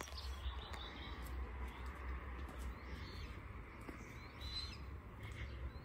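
Birds chirping faintly, a few short high calls scattered through, over a low steady rumble.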